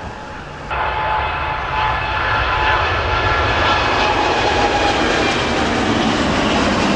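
Airliner engines running loud at close range, a rushing noise with a steady whine over it. It starts abruptly about a second in, swells a little, and cuts off sharply at the end.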